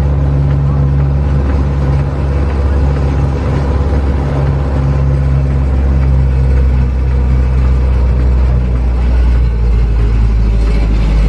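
Engine of a trackless road train running steadily as it tows its passenger carriages, heard from on board as a continuous low drone with road noise.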